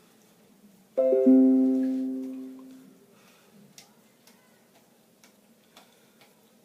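A two-note plucked-sounding chime about a second in, a higher note followed quickly by a lower one, ringing out and fading over about two seconds. Faint scattered clicks follow.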